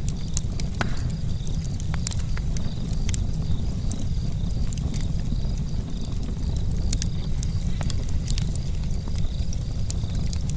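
Charcoal campfire burning, with sparse sharp crackles and pops over a steady low rumble.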